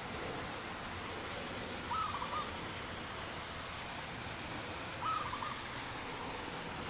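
Wild dove cooing: two short phrases of quick, clipped coos, about two seconds and five seconds in, over a steady outdoor hiss.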